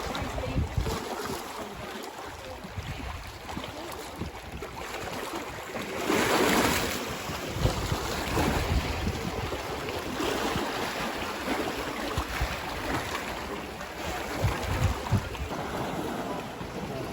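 Wind buffeting the microphone over the wash of sea waves, with a louder rush of noise about six seconds in.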